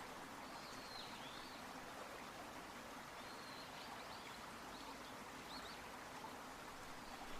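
Faint running water of a stream, a steady soft hiss, with a few faint high bird chirps scattered through.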